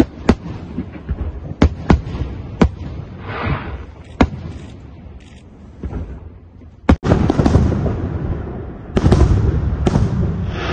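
Aerial fireworks going off: a run of separate sharp bangs over the first few seconds, then from about seven seconds in a dense, loud barrage of crackling bursts and bangs.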